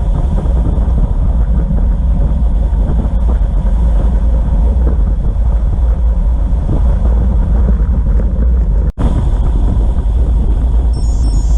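Wind buffeting the microphone of a camera riding along on a bicycle: a loud, steady low rumble that cuts out for an instant about nine seconds in.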